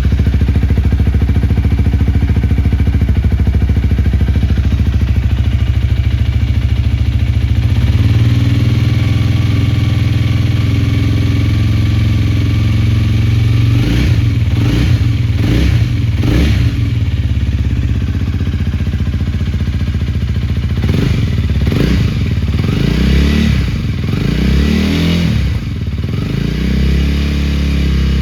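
Honda Rebel 250's single-cylinder engine running through an aftermarket Moriwaki muffler: a steady idle, then a slightly higher steady speed about eight seconds in, then a series of short throttle blips, each rising and falling in pitch, in two groups over the second half.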